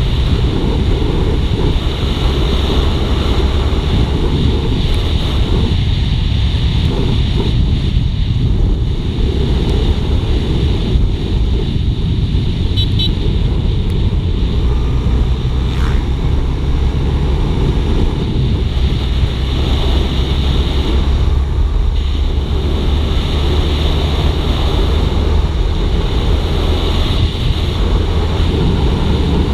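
Suzuki GSX-R150's single-cylinder engine running at a steady cruise, under heavy wind noise on the microphone while riding.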